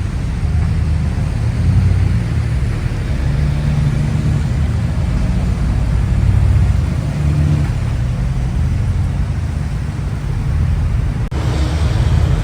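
Motor vehicle running: a steady low engine and road rumble that dips briefly about a second before the end.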